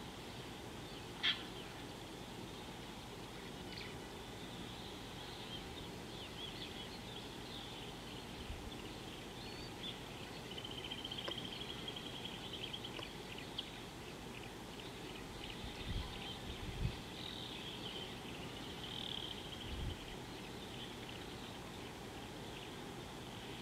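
Birds chirping and trilling over a steady outdoor hiss, with a loud sharp chirp about a second in and a fast trill near the middle. A few dull low thumps come in the second half.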